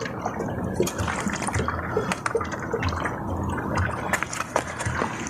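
Water trickling and dripping from the opened pool pump as it is drained, an irregular patter of drops.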